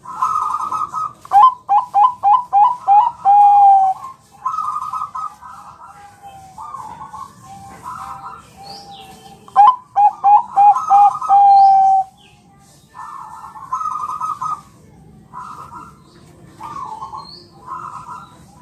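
Zebra doves (Thai-bred perkutut bangkok) cooing. Twice, about a second in and again near ten seconds, a loud phrase of quick staccato coos ends in a longer held note, with softer coo phrases in between.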